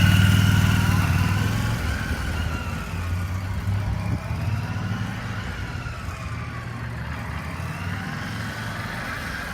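Fuel-injected motorcycle engine running as the bike rides off, loudest at first and fading steadily as it moves away.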